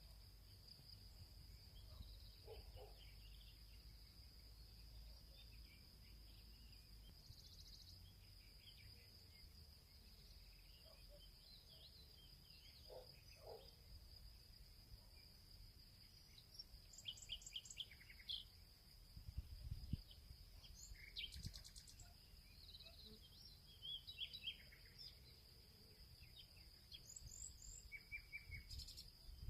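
Field ambience: a steady high insect drone with scattered bird chirps and calls, which grow busier in the second half, over a low rumble.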